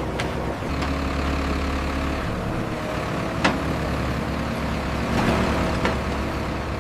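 Heavy construction machinery's engine running steadily with a low drone, with a few sharp knocks over it, the clearest about three and a half seconds in.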